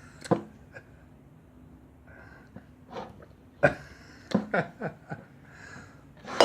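Short, breathy mouth and nose sounds from a small child sucking at a straw-spoon, trying to drink honey through it. The sounds come in scattered bursts, the busiest stretch from a little past the middle.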